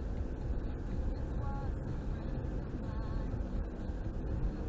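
Car driving on the highway heard from inside the cabin: a steady low rumble of engine and road noise.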